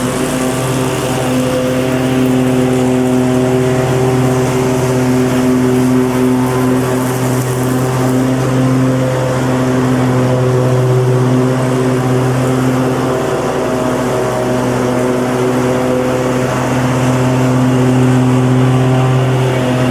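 Lawnmower engine running steadily under load at a constant speed, a loud, even drone.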